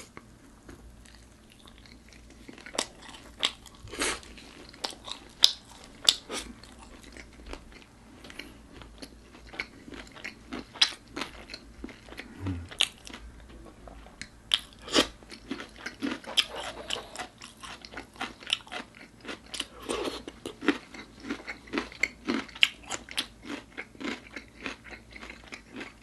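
Close-miked crunching bites and chewing of crispy-coated chili-pepper chicken, sharp crunches coming every second or so after a quieter first couple of seconds.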